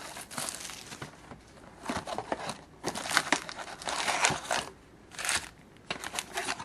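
Plastic wrapping and card-pack wrappers crinkling and rustling in irregular handfuls as a box of trading-card packs is opened and emptied by hand.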